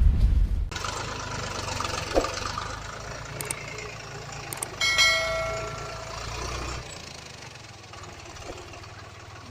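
Heavy truck engine running at a low, steady idle after a loud low rumble cuts off under a second in. About five seconds in, a single ringing tone sounds for a second or so.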